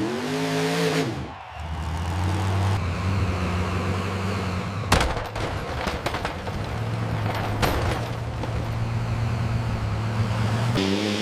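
Tractor engine revving up and down, then running at a steady speed, with two sharp bangs about five and eight seconds in.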